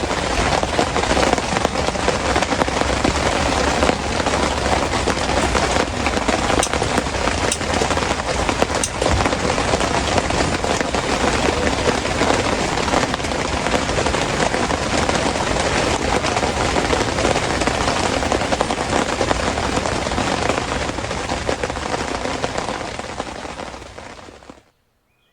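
Heavy rain falling in a dense, steady patter, with a few sharper drop ticks; it fades out near the end.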